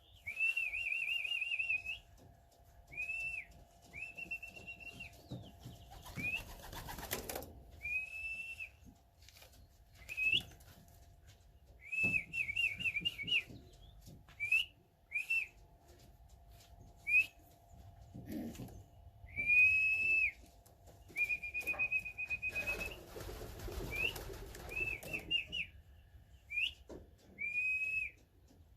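A person whistling over and over, the way a fancier calls racing pigeons down into the loft. Short high whistles, some held steady and some in quick warbling runs, with pauses between.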